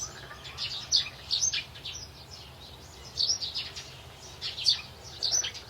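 Birds chirping: clusters of short, high chirps repeating about once a second.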